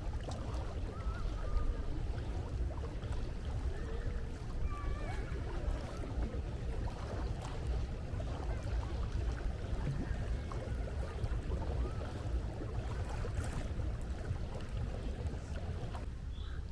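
Sea surf washing steadily, with wind rumbling on the microphone. A few faint bird calls sound over it.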